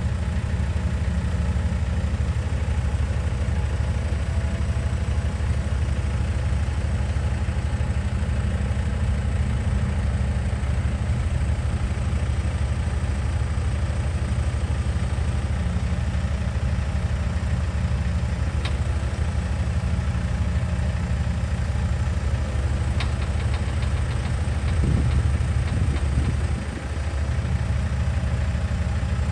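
An engine idling steadily at an even, fast pulse, with a few faint clicks later on.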